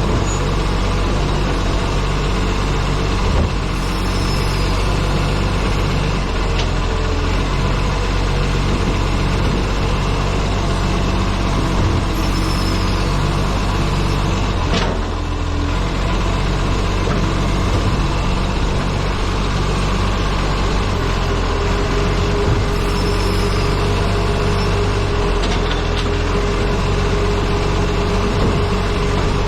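Wind buffeting a camera mounted on the front of an Acco truck, over the truck's engine and road noise while it drives.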